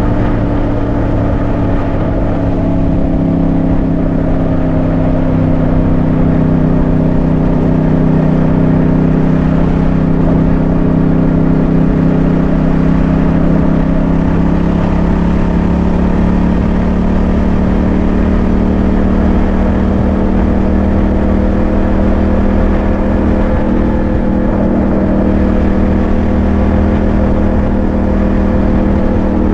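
Yamaha MT-07's parallel-twin engine running at a steady cruise under way, its pitch dipping slightly and then rising gently, with no breaks or sharp revs.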